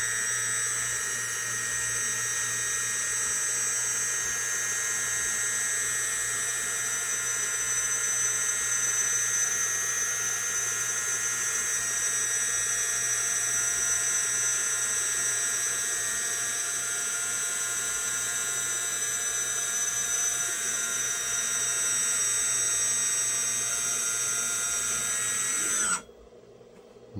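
Brushless electric hydraulic pump motor of a 1/14 scale Scania G540 RC dump truck whining steadily as it raises the tipper bed. It stops near the end with a short falling pitch.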